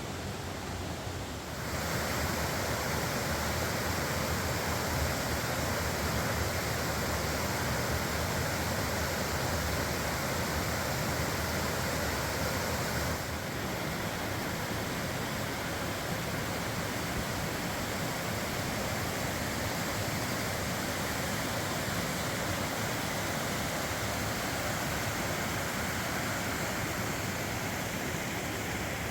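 A creek waterfall rushing steadily, flowing strongly after recent rain. It grows louder about two seconds in and drops back a little about halfway through.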